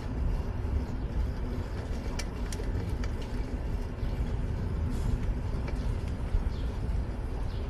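Rumbling wind on the microphone and city street traffic, heard from a fixed-gear bicycle riding through the city, with a few short sharp clicks about two to three seconds in.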